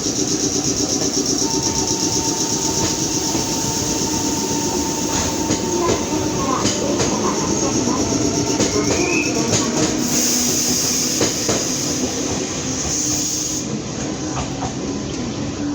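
Meitetsu 6500 series electric train running through the station, with a steady running noise and a thin whining tone, and wheels clacking over rail joints in the middle.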